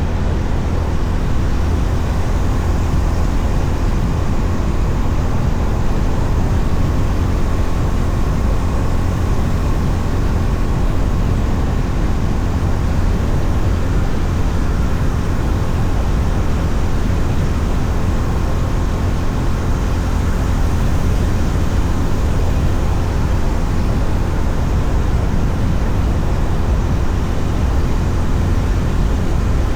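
Steady wind rush and road noise while riding a Honda CB350RS motorcycle at a constant pace, heaviest in the low rumble, with the bike's running engine beneath it.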